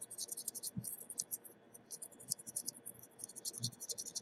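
Faint, rapid high-pitched scratching ticks of a small tool scrubbing debris out of a logic-board connector wetted with isopropyl alcohol.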